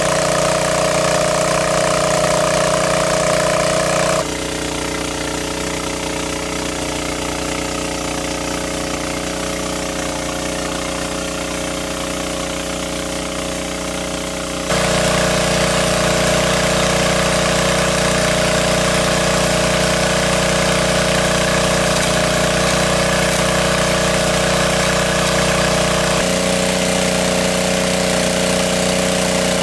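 A small engine running steadily at idle. Its pitch and loudness change suddenly three times, as at splices between clips.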